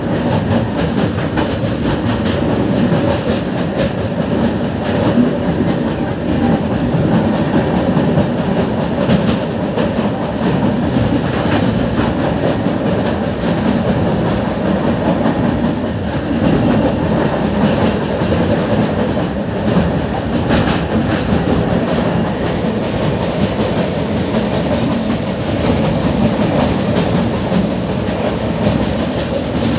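Train crossing a steel truss bridge, heard from aboard a carriage: a steady, loud rumble of wheels on rail with a light clatter throughout.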